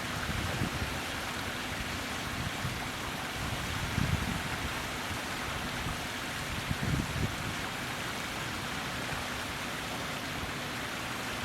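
Steady rush of flowing stream water, with a few brief low thumps.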